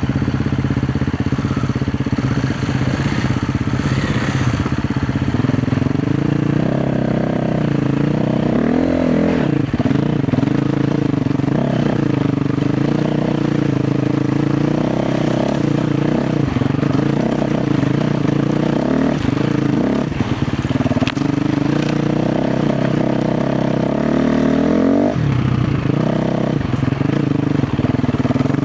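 KTM 350 XC-F's single-cylinder four-stroke engine running under load, its revs rising and falling continually as the throttle is worked. A quick rise in revs comes near the end.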